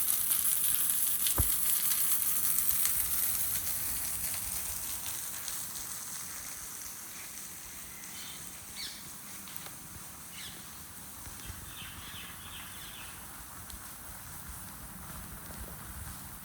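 Rain falling as a steady hiss that eases off over the first several seconds, with one sharp tap near the start. A few faint short chirps come through in the middle.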